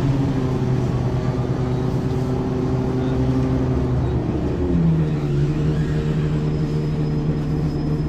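Ikarus 435 articulated bus's diesel engine running under way with a steady drone. Its pitch wavers a little past four seconds in, then holds slightly higher.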